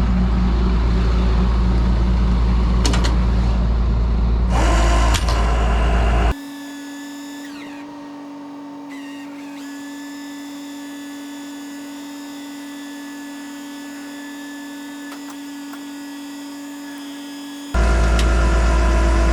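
Ford F700 dump truck's engine running with a heavy low rumble. About six seconds in it cuts off abruptly to a quieter, steady high-pitched whine with a couple of brief pitch slides. The truck's running returns abruptly near the end.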